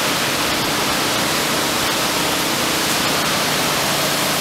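Hurricane wind and heavy rain making a steady, loud rushing noise, with a faint steady hum beneath it.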